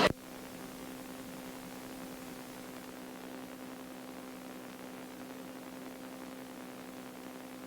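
Steady electrical hum with a faint hiss on the intercom audio feed into the camera. It is a low, even tone with a weaker overtone and no change through the whole stretch.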